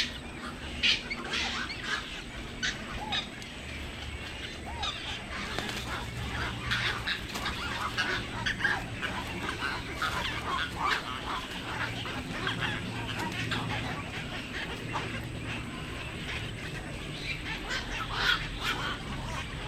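Birds giving short, harsh honking calls over and over, many close together, over a low steady hum.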